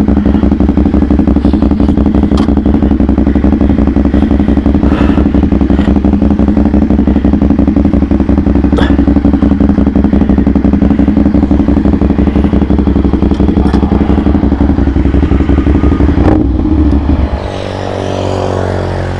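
CFMOTO 450SR S parallel-twin engine with an aftermarket exhaust, running steadily under way, with a few sharp clicks. Near the end the throttle eases off and the engine note drops and changes pitch.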